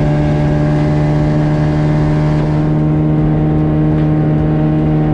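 A fishing boat's motor running at a steady speed with the boat under way, a constant even drone that holds its pitch.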